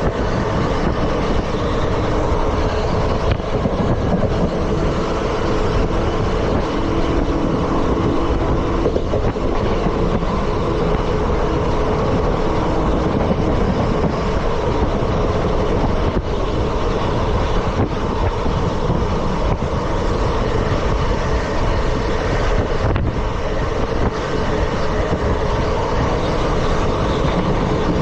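ICF passenger coaches running along the track at speed: a steady rumble and rattle of wheels on rails.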